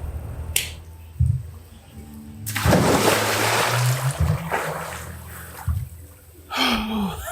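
A loud splash in a swimming pool about two and a half seconds in, the water noise fading over the next couple of seconds, with background music underneath.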